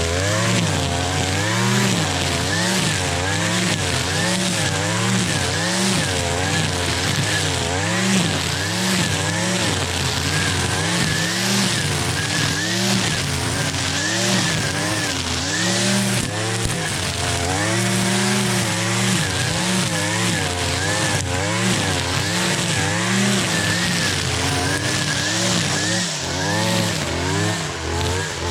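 Gas string trimmer (weed eater) with a line head running, its small engine revving up and down again and again, about once a second, as it cuts tall grass and weeds.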